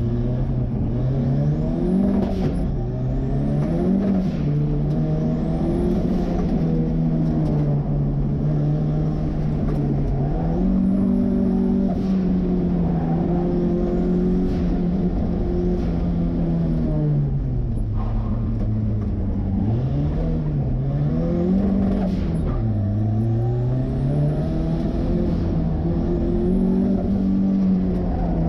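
Turbocharged Ford 2.3-litre four-cylinder in a 1963 Volvo Amazon driven hard: the engine revs up and down again and again, and each time the throttle opens a high turbo whistle rises and falls, about eight times.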